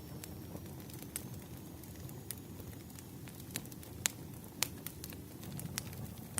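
Wood fire burning: a steady low rumble of flames with scattered sharp crackles and pops from the burning logs, a few louder pops about four and four and a half seconds in.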